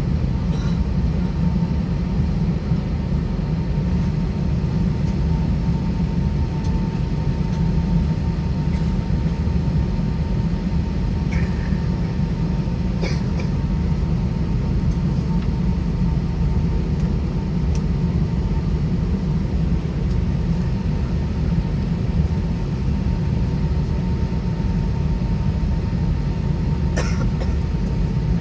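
Airbus A320 cabin noise while taxiing, its IAE V2533-A5 engines at idle thrust: a steady low rumble with a faint steady whine. A few brief clicks break through, about 11 and 13 seconds in and again near the end.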